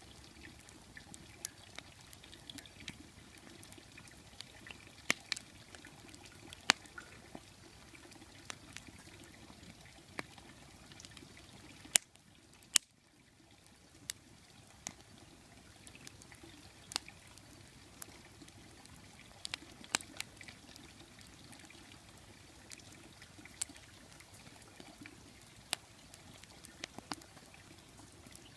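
Wood fire burning in a fire bowl: a steady low hiss with sharp, irregular crackles and pops, a few of them loud.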